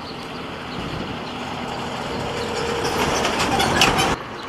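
Upaban Express meter-gauge passenger train running on the rails, its rumble growing louder with a run of sharp wheel clacks over the rail joints, then cut off abruptly about four seconds in.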